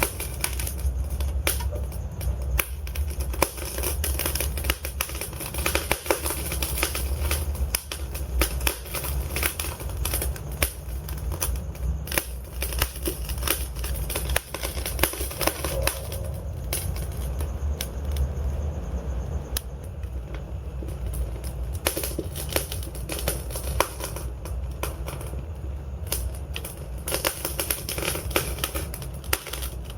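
Wood fire in a fireplace crackling, with frequent sharp irregular pops and snaps from the burning logs over a steady low rumble of the flames.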